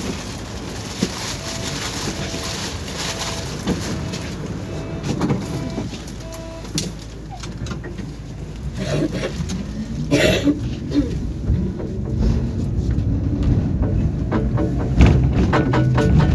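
Tram running, heard from inside the car. A series of short, evenly spaced beeps sounds about twice a second for several seconds. Then a rising motor whine builds as the tram picks up speed, with knocks and rattles near the end.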